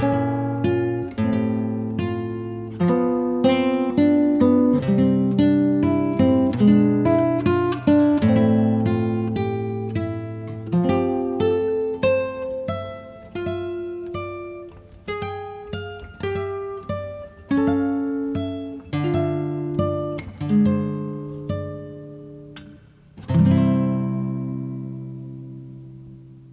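Background music on acoustic guitar: plucked notes and chords in a gentle melody, ending on a final chord a little before three-quarters of the way through that rings and slowly fades out.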